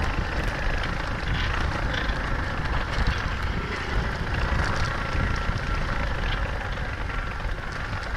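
125cc single-cylinder four-stroke pit bike engine running steadily as the bike is ridden along a trail, with no sharp revving.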